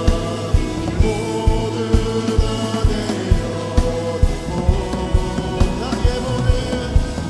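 Worship song: singing over a band, with a steady drum beat about twice a second.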